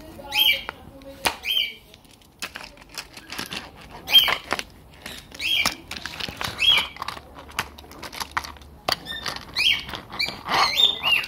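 A bird chirping in short, high, repeated calls, among many light clicks and rattles.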